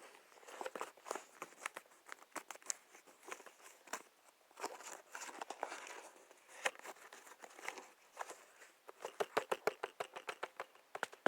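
Close-miked ASMR trigger sounds: scattered light taps and clicks over soft rustling and crinkling, turning into a quick run of taps near the end.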